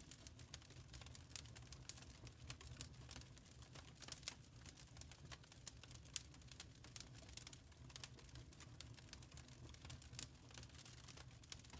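Wood fire crackling in a fireplace: quiet, irregular pops and snaps, several a second, over a low steady rumble.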